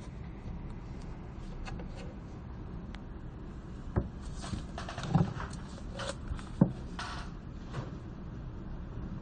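Library room ambience: a steady low hum of the room with scattered small clicks and brief rustles. Three sharper knocks land about four, five and six and a half seconds in.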